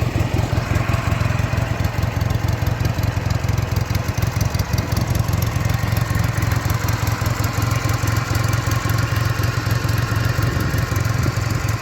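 Ural motorcycle's flat-twin engine idling steadily, freshly started on the first kick.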